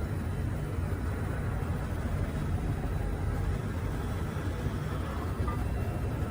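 Steady low rumbling background noise, even throughout, with no distinct knocks or clicks.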